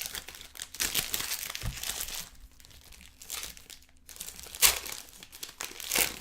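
Trading card pack wrappers crinkling and tearing as packs are ripped open and handled, in irregular rustles with a few louder crackles.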